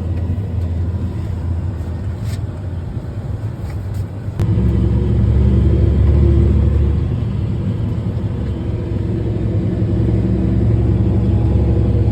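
Fendt tractor's diesel engine running steadily with a low drone, getting suddenly louder about four seconds in.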